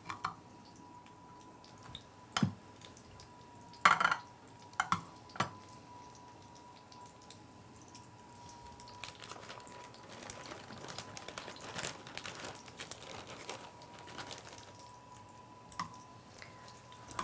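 Breaded chicken cutlets frying in hot oil in a pan, crackling and spitting, most densely for several seconds in the second half. A few sharp clinks and knocks of utensils and pans come in the first few seconds, over a faint steady high tone.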